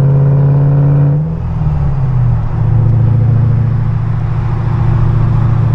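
Car engine running steadily under way; its note drops in pitch about a second in, as with a gear change or easing off the throttle, then holds steady at the lower pitch.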